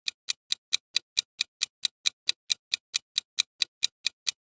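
Clock-like ticking countdown timer sound effect, short sharp ticks at a steady rate of about four to five a second.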